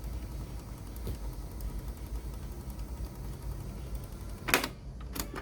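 Low hum and hiss from a Sony CFS-1065S radio cassette player's speaker, with a short crackle about four and a half seconds in and another just before the end.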